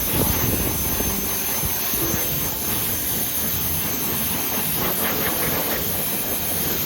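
Car wash equipment running with a loud, steady rushing hiss.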